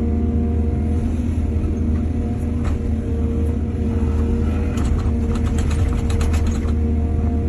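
Heavy diesel excavator engine running steadily under load, with a quick run of knocks and rattles about halfway through.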